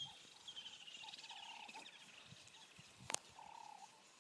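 Faint birds calling: a high, falling trilled call repeated, with a lower wavering call coming and going, and a single sharp click about three seconds in.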